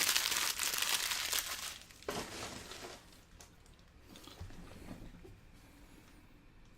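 Plastic trading-card pack wrapper crinkling and being torn open by hand, loudest in the first two seconds with a second short tear, then fading to light rustling.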